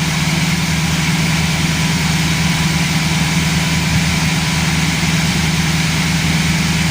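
Chevrolet Camaro engine running steadily at a raised idle, its RPM held up by a scan-tool active test commanding the intake camshaft actuator solenoid valve.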